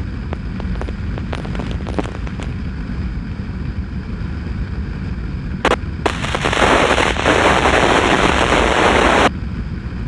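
Police scanner breaking squelch: a click, then about three seconds of loud radio static that cuts off suddenly, over the steady low rumble of the motorcycle ride.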